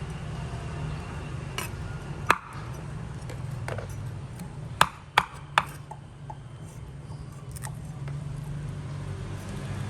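Several sharp knocks and clinks of hard objects, with three close together about halfway through, over a steady low hum.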